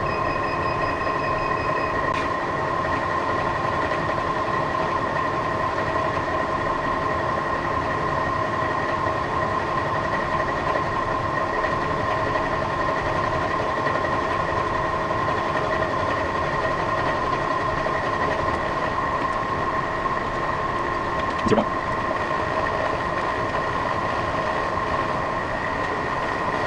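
Milling machine running steadily with a constant whine and hum, with one short knock about 21 seconds in.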